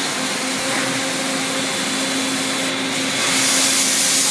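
A Makino A55 horizontal machining center running with a steady hum. About three seconds in, a loud hiss starts up and keeps going.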